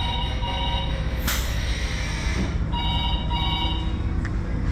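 A telephone ringing in a double-ring pattern, two short rings then a pause, over a steady low hum. A brief hiss comes about a second in.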